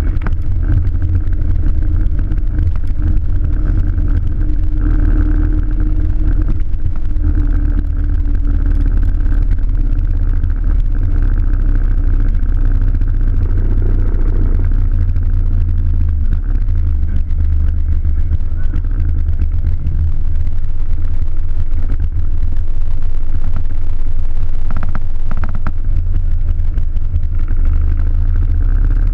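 Steady low rumble of riding a bike: road and wind noise on the microphone, with no clear breaks.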